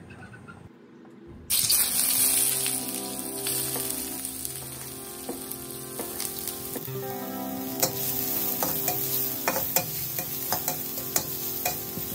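Chopped shallots hitting hot cooking oil in a wok, bursting into a loud sizzle about a second and a half in and then frying steadily. Toward the end a spatula stirs them, with sharp clicks and scrapes against the wok.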